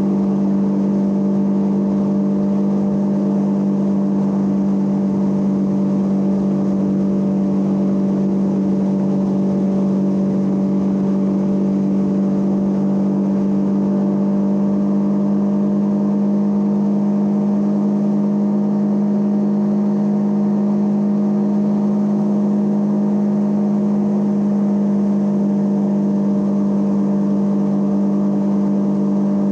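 Triumph Trident 660's inline three-cylinder engine running at a constant pitch, with no revving or gear changes.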